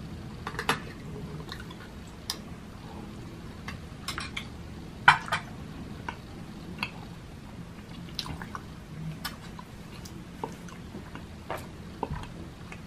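Close-up wet eating sounds from a person chewing sticky chocolate rice porridge (champorado): scattered mouth clicks and smacks, one louder smack about five seconds in, with a metal spoon scraping a glass bowl at the start.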